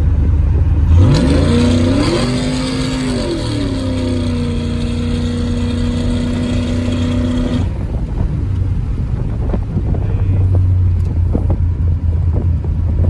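Cammed 5.3-litre LS V8 with a Carven R-series muffler, heard from inside the truck's cabin, under hard throttle about a second in. The exhaust note climbs in pitch, dips and settles, holds a steady drone for a few seconds, then the throttle comes off and it falls back to a low rumble.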